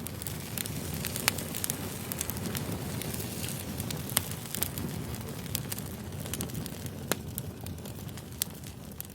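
Campfire burning: wood crackling and popping at irregular moments over a steady low rush of flames.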